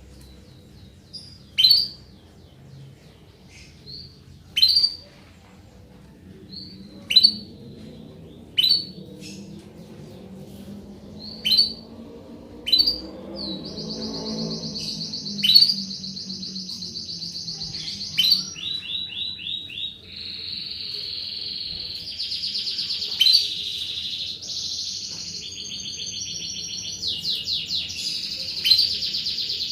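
Domestic canary calling: sharp single chirps every second or two, then from about 13 seconds in a continuous run of rapid high trills.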